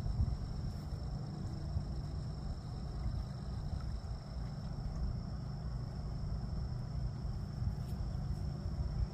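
Steady, unbroken high-pitched insect chorus, like crickets trilling in a meadow, over a constant low rumble.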